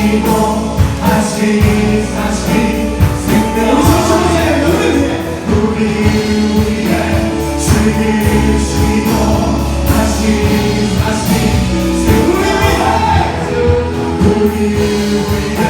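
Live worship band and group of singers performing a praise song, voices singing together over a full band with a steady drum beat.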